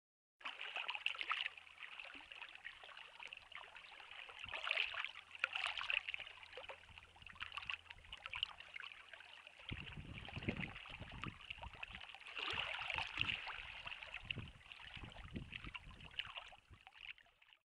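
Water trickling and splashing, with irregular louder splashes. From about ten seconds in, low dull thumps join it, and the sound cuts off suddenly near the end.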